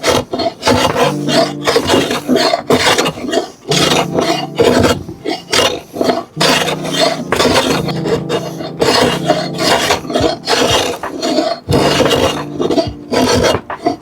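A hand tool rasping on wood in quick, repeated back-and-forth strokes, with a low hum coming and going underneath.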